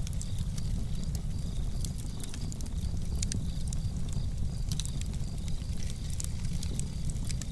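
Fire in a fireplace crackling, with irregular sharp snaps over a steady low rumble of the flames.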